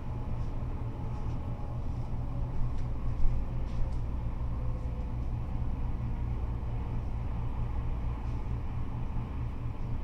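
Freeway traffic of cars and trucks passing, a steady low rumble of tyres and engines with no single vehicle standing out.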